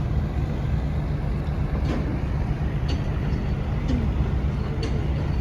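Steady low rumble of a cruise boat's engine, with a few short clicks from about two seconds in.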